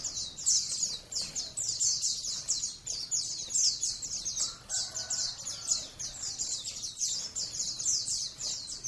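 White-eye (Zosterops, pleci) song: a fast, unbroken stream of high, short down-slurred notes, several a second, in the rapid 'ngalas nembak' style.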